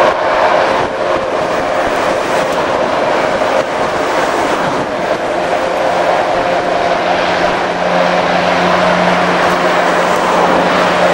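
Aircraft engines running steadily with a whine, a low steady hum joining about six seconds in.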